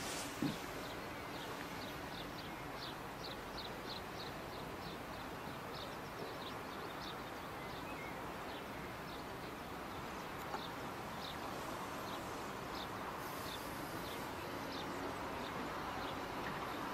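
A small bird chirping over and over, short high calls two or three a second, over a steady low hum and hiss of outdoor background. A single sharp thump about half a second in.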